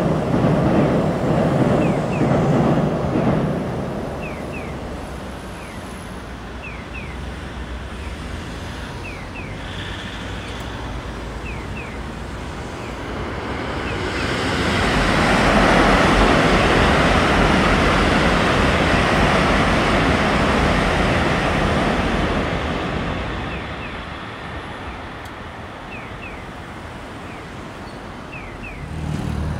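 A train rumbling across an elevated railway bridge, dying away after about three seconds. About fourteen seconds in, a louder rushing noise swells, peaks and fades over some eight seconds as another vehicle passes, with faint short chirps now and then.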